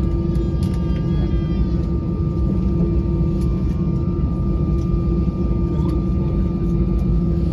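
Steady cabin drone of an Airbus A320-214 on the ground after landing: low rumble with an even engine hum and a thin high whine from its idling CFM56 turbofans.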